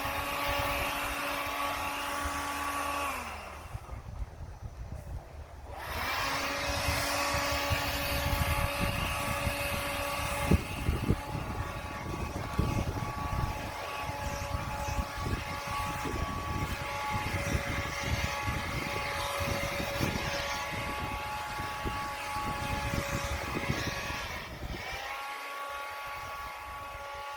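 Engine-driven blower running at high throttle to blow away fresh snow, with a steady engine note over the rush of air. The engine drops back about three seconds in and revs up again about three seconds later.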